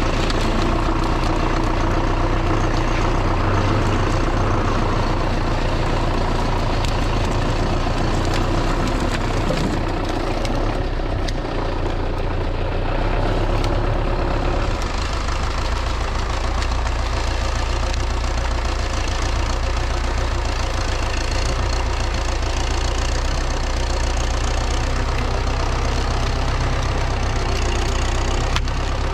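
An engine running steadily, its note changing about halfway through.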